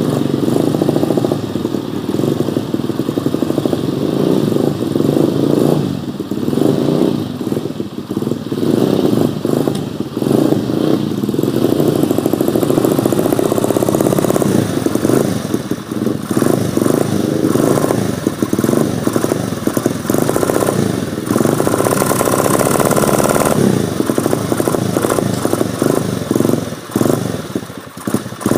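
Dirt bike engine running, its level rising and falling unevenly throughout.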